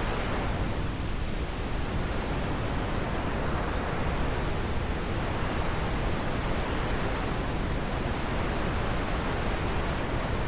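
Wind blowing steadily, a dense rushing noise with a deep rumble beneath. A brief hissing swell in the high end comes about three to four seconds in.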